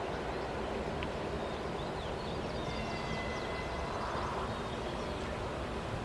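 Freight train running past with a steady low rumble, with faint short high chirps and a brief thin high tone about three seconds in.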